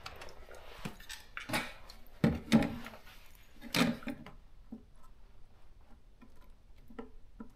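Scattered knocks and clatters of hard objects being handled on a work surface, about five louder ones in the first four seconds, then only faint clicks, as the typewriter's plastic cover and washing things are moved about.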